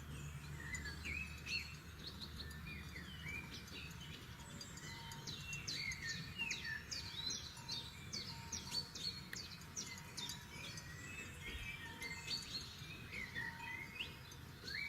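Several forest songbirds singing and calling at once: a dense chorus of short chirps and quick rising and falling whistles, busiest in the middle, over a low steady rumble.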